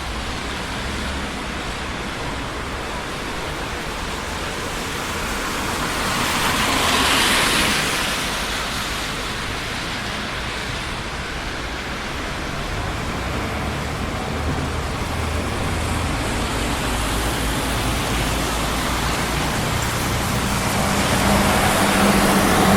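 Steady traffic noise from a busy city street: a constant wash of tyre and engine noise, with one vehicle passing close about seven seconds in and another engine drawing near at the end.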